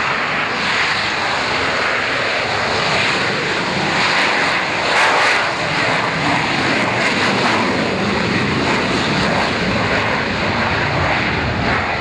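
Sea Harrier's Rolls-Royce Pegasus vectored-thrust turbofan running loud and steady, a dense jet noise that swells briefly about five seconds in.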